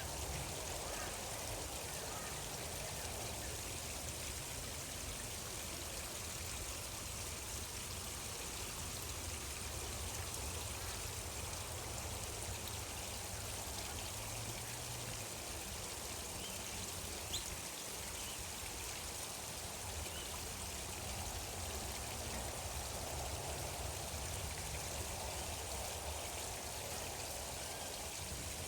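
Steady flow of water in a stream, an even rushing hiss, with a single faint click a little past the middle.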